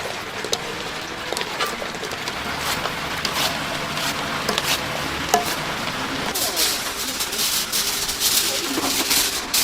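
Chicken deep-frying in hot oil, a dense crackling and sizzling that grows louder and brighter about two thirds of the way in, with voices in the background.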